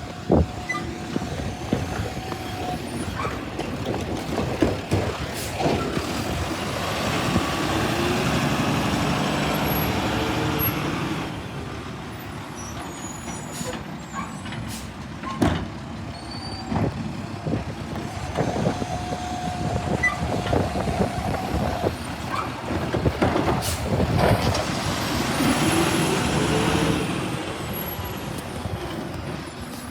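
Garbage truck's diesel engine running, twice revving up for several seconds, with sharp knocks and clanks in between.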